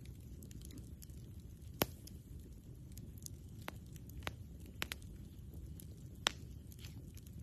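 Wood campfire crackling: scattered sharp pops, the loudest about two seconds in and again near the end, over a low steady rumble.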